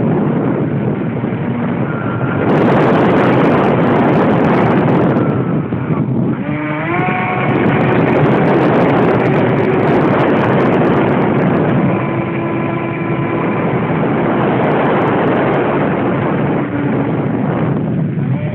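Radio-controlled airplane in flight: a loud, steady rush of air and motor noise, with a faint motor whine that dips and then rises in pitch about six seconds in.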